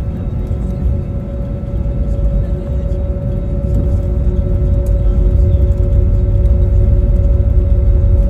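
Airbus A320 cabin noise on the ground: a steady low rumble with a steady whine running under it, growing slightly louder in the second half.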